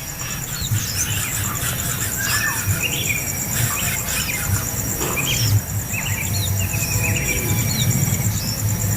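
Birds chirping in short, varied calls over a steady, high pulsing insect trill.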